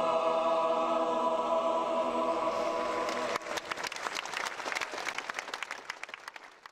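A choir and accompaniment hold the final chord of a worship song, breaking off about halfway through into audience applause, which thins out and fades away near the end.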